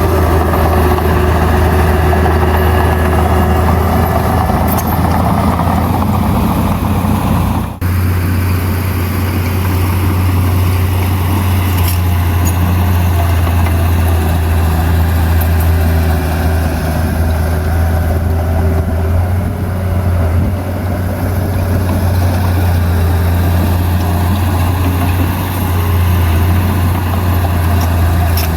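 Heavy diesel engine of earthmoving machinery running steadily with a deep hum, with a brief drop-out about eight seconds in.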